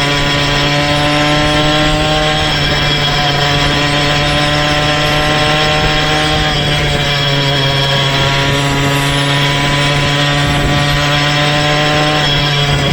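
Small motorized-bicycle engine running steadily under way, with a buzzy, chainsaw-like note whose pitch shifts slightly a few times as the throttle and speed change.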